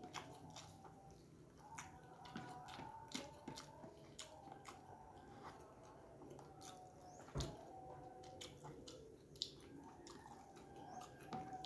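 Faint close-up chewing of a mouthful of rice, with many small wet mouth clicks and smacks, and fingers picking up rice from a plastic tray. There is a dull bump about seven seconds in.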